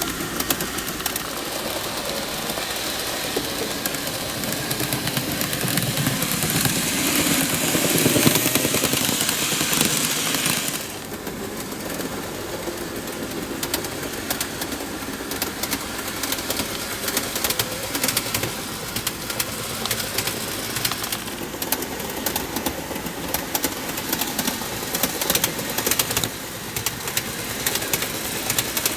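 N-gauge model train running on its track during a test run after the powered car's maintenance: motor hum and wheel-on-rail rattle. It grows louder as the train comes close about eight seconds in and drops away sharply about three seconds later, then continues with many fine clicks.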